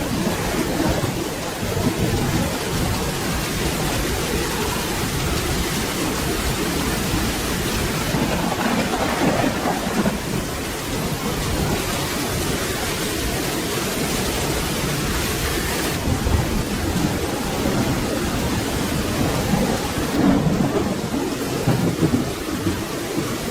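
Steady rain falling, with low rolling thunder rumbling underneath that swells about a third of the way in and again near the end.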